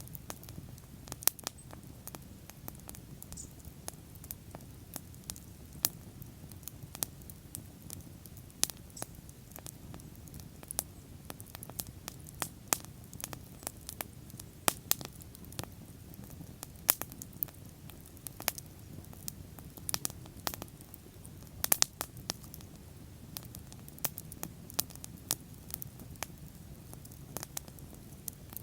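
Wood fire burning with sharp, irregular crackles and pops, several a second, over a low steady rumble of the flames.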